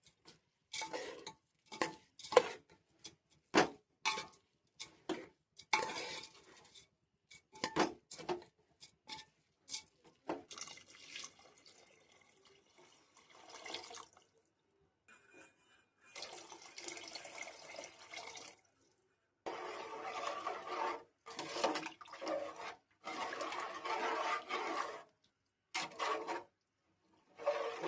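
Metal utensils clinking and scraping against a cooking pot in quick, irregular strikes, then several spells of water pouring and splashing, each lasting one to four seconds.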